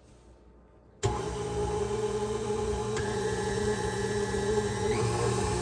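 KitchenAid stand mixer motor switched on about a second in and running steadily, driving the Spiralizer Plus attachment through a potato.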